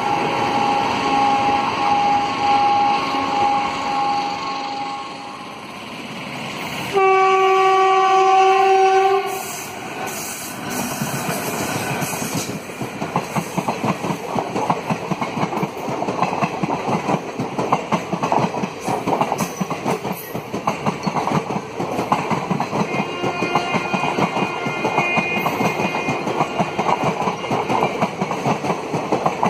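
An ICF DEMU passing, its steady engine whine fading over the first few seconds. About seven seconds in, a train horn sounds loudly for just over two seconds. From about twelve seconds in, the Narmada Express's passenger coaches run past at speed behind its WAP4 electric locomotive, with dense rhythmic wheel clatter over the rail joints.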